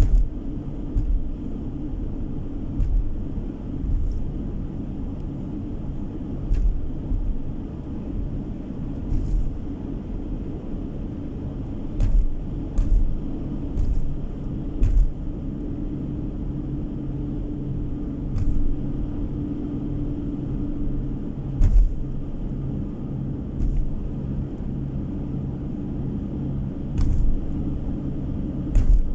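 Steady engine and tyre noise heard inside a moving car, with short low thumps every few seconds at uneven spacing.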